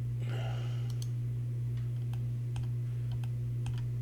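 Computer keyboard keys and mouse buttons clicking now and then, a dozen or so scattered light clicks, over a steady low electrical hum.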